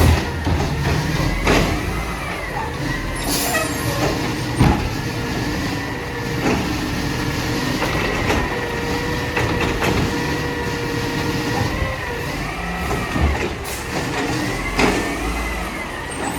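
Mack LR recycling truck with a Labrie Automizer side-loader body running its engine and hydraulics: a whine that wavers up and down in pitch, with scattered clanks and knocks.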